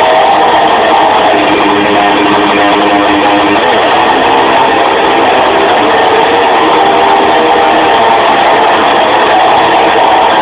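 Loud guitar music with strummed electric guitar, played steadily at full volume.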